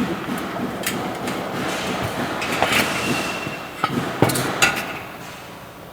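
Steel parts of a metal heater prototype knocking and clanking as they are tapped and handled into position, several sharp knocks over a steady hiss.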